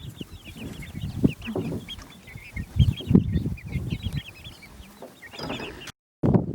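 Chickens clucking and chirping softly, with short high calls repeated throughout and scattered rustling beneath.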